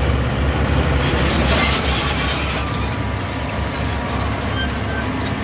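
Heavy diesel earthmoving machinery running steadily: a low engine drone under a loud, rough mechanical rumble.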